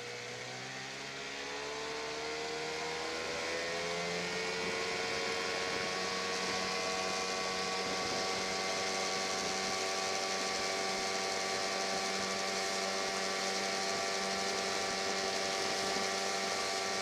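Gasoline outboard motor on a jon boat running under way: its pitch rises over the first few seconds as it speeds up, then holds steady.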